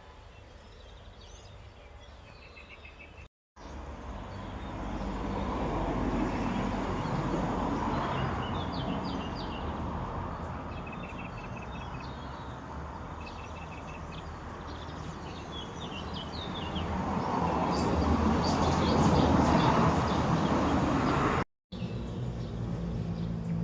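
Songbirds chirping and calling across three short clips joined by two brief silent cuts. In the middle clip a loud, steady noise swells and fades twice under the birdsong.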